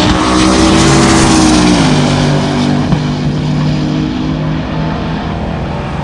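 A race car's engine at full throttle, its note dropping about two seconds in, then fading as the car pulls away down the track.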